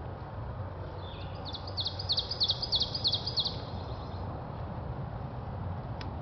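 A songbird sings a quick series of about a dozen high, repeated notes for about two seconds, over a steady low outdoor background rumble.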